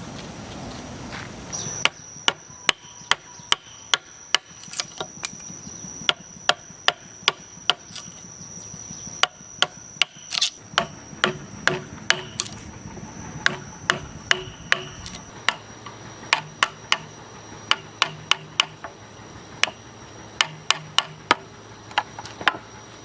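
Repeated sharp blows of a hand tool striking, in quick runs of several hits with short pauses between, over a steady high-pitched tone.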